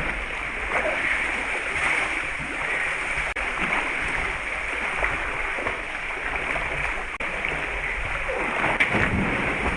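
Steady rush of flowing creek water, with splashing as someone moves through a pool, a little louder near the end.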